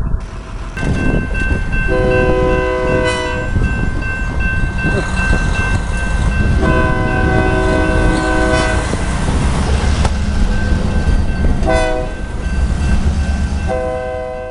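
Union Pacific locomotive air horn sounding the grade-crossing pattern, two long blasts, a short one and a long one, over the heavy rumble of the passing train. A steady high-pitched crossing-signal bell rings throughout.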